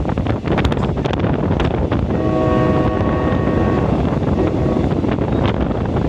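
Train running, heard from on board as a loud steady rumble with wind rushing on the microphone and a few sharp clacks. About two seconds in, the train's horn sounds a steady chord for nearly two seconds.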